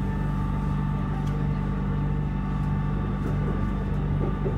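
Siemens EMU-A1 BTS Skytrain train running, heard from inside the car: a steady hum with several held tones over a low rumble.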